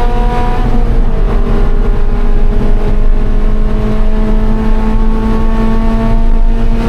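Scion FR-S's flat-four engine heard from inside the car, pulling hard at high revs. Its pitch dips a little about a second in, then climbs slowly and steadily, over constant low road and wind rumble.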